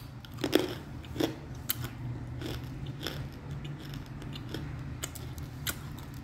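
A chunk of dry clay bitten and crunched between the teeth: a run of sharp, uneven crunches, loudest in the first second and a half, then softer, more widely spaced crunches as it is chewed.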